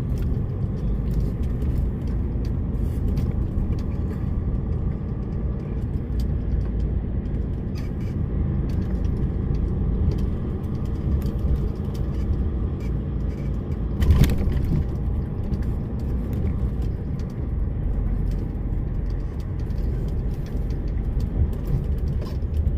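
DAF lorry's diesel engine running steadily on the move, with scattered light clicks and rattles and one sharp knock about two-thirds of the way through.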